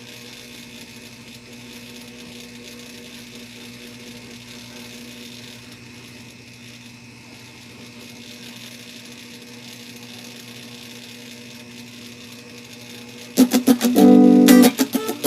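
Steady hum and hiss from an electric guitar rig, with the strings at rest. About thirteen seconds in, loud picked electric guitar notes through a Mooer envelope filter (auto-wah) pedal start up.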